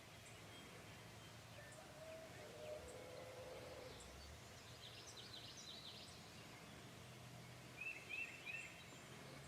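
Faint outdoor background with a few distant bird chirps, including a quick run of three short calls near the end.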